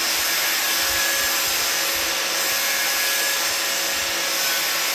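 A power tool running steadily, cutting a length of 1.5-inch PVC pipe: an even, unbroken whirring hiss with no stroke rhythm.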